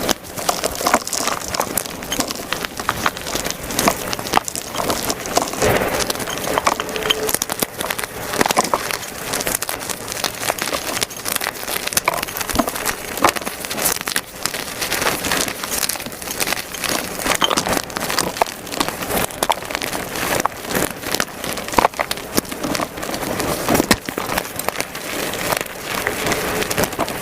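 Reformed gym chalk cakes being crushed and crumbled by hand: a continuous run of rapid crunches and crackles with powdery crumbling, played back at double speed.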